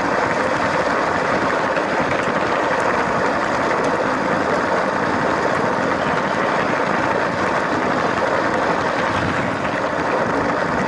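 LEGO train running along plastic track, heard from on board: a steady whirring and rolling noise from its small electric motor and wheels, with a few faint clicks.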